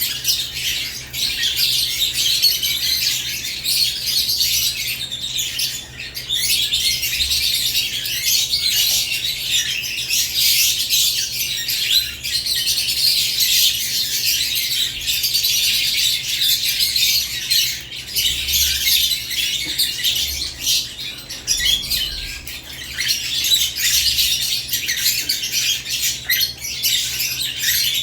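Several caged lovebirds chirping and squawking, a dense high-pitched chatter that never lets up.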